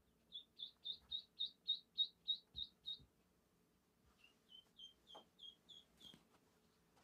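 A bird singing: a quick run of about ten even, high chirps at some four a second, then after a pause a second, slightly lower run of about eight chirps.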